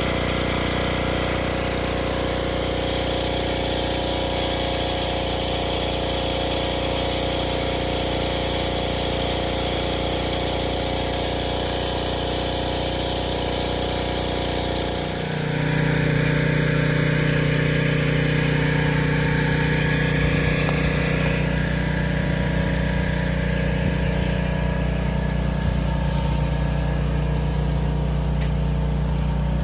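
Pressure washer's engine running steadily. About halfway through it dips for a moment, then settles into a different, slightly louder note.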